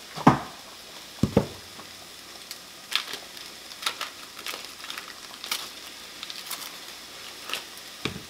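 Onions frying in a pan, a steady sizzle, under the handling of butter sticks: two loud thumps within the first second and a half, then scattered clicks and the crinkle of a paper butter wrapper.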